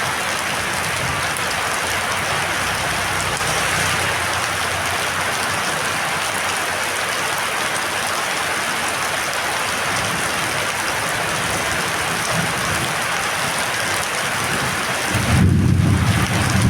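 Heavy storm rain falling, a steady dense hiss. About fifteen seconds in, a louder low rumble takes over and the hiss thins out.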